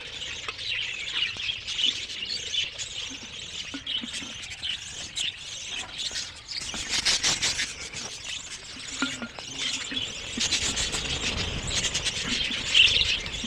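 A room full of budgerigars chirping and chattering continuously, many high, quick calls overlapping, with scattered small clicks and knocks.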